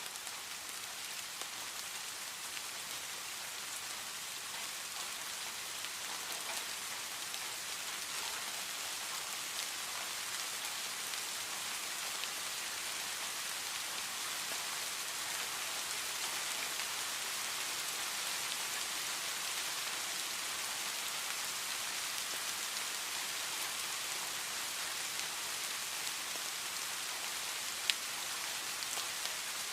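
Steady gentle rain falling in a forest, an even hiss of many drops that swells slightly over time, with one sharp drip or click near the end.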